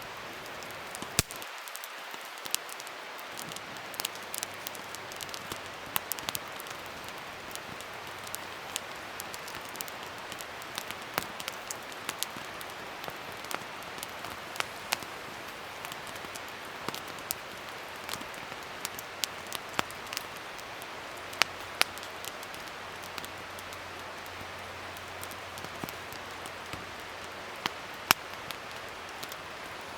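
Wood campfire burning: a steady soft hiss with irregular sharp crackles and pops, a few of them much louder than the rest.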